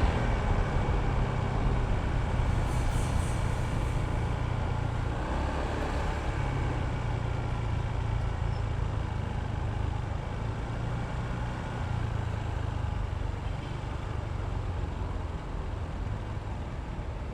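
Honda ADV160 scooter's single-cylinder engine running at low road speed amid traffic noise, a steady low drone that grows slightly quieter toward the end.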